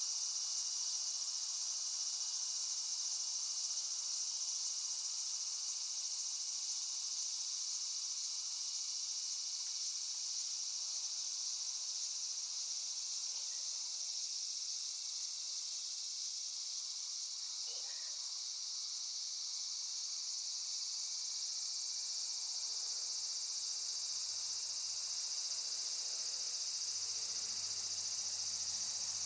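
Steady chorus of crickets, a continuous high-pitched trill, with a faint low hum starting about two-thirds of the way through.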